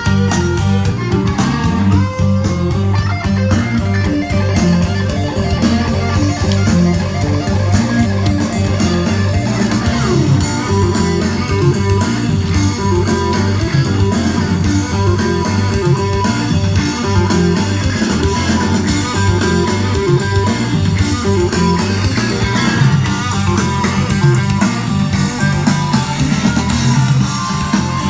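Guitar-led music with bass, played back through Klipsch Forte loudspeakers driven by a Pioneer SX-434 stereo receiver, at a steady, fairly loud level.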